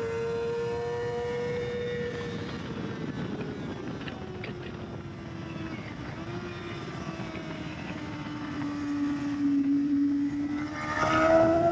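Kawasaki ZX-6R 600 sport bike's inline-four engine running at high revs on a racetrack, seen from onboard. Its pitch holds high, drops through the middle as the bike slows for a corner, then climbs again as it accelerates near the end, over a steady rush of wind noise that swells near the end.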